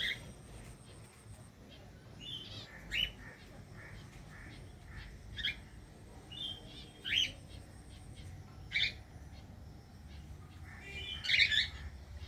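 Birds calling: short chirps repeated every second or two, with a quick run of several calls near the end, over a faint low rumble.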